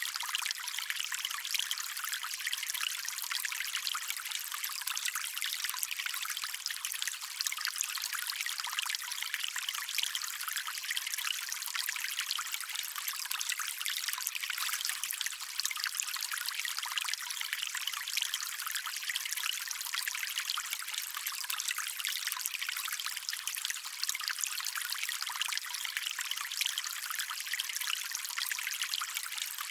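Shallow stream water trickling and splashing steadily, a bright, hissy babble with little low rumble.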